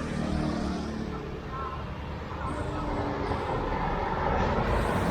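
Road traffic going by on a busy street, with one vehicle passing close and growing louder toward the end. Voices can be heard in the background.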